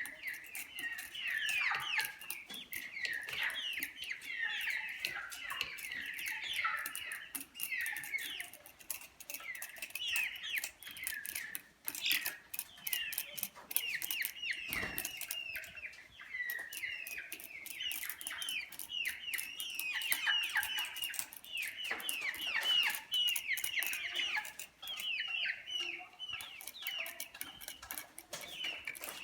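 Brahma chickens calling: a dense, continuous run of short, high, falling peeps, with scattered sharp clicks.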